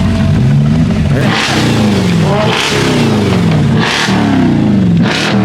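Car engine idling, then revved in repeated quick throttle blips starting about a second in, roughly one every second and a half. The pitch falls back after each blip.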